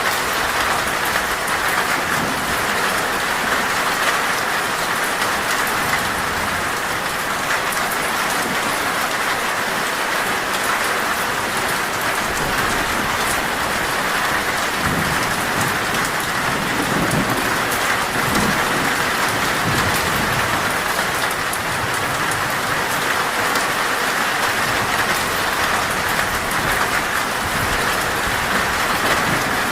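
Heavy rain falling on a metal roof, a steady dense hiss, with a low rumble of thunder about halfway through.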